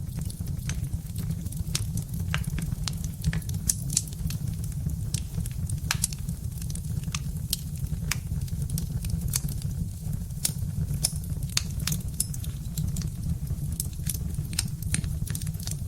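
Birch-wood fire crackling: irregular sharp pops and snaps, several a second, over a steady low rumble.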